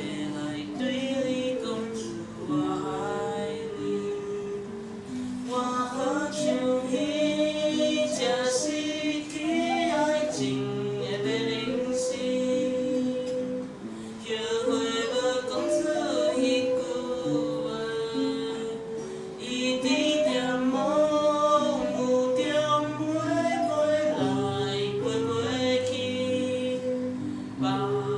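A Taiwanese folk song performed live: a singer's voice carrying the melody in phrases over acoustic guitar accompaniment.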